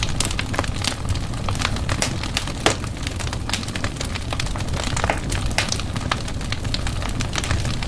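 Wood fire crackling in a fireplace: frequent irregular sharp pops and snaps over a steady low rumble of the flames, with one louder pop a little under three seconds in.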